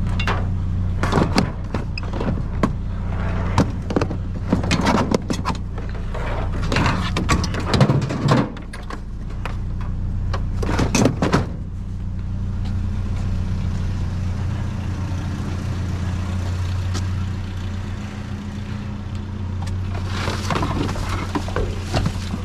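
Junk being rummaged through and moved in a trash pile: many irregular clatters and knocks, a quieter stretch about halfway, then more clatter near the end, over the steady low hum of an idling vehicle engine.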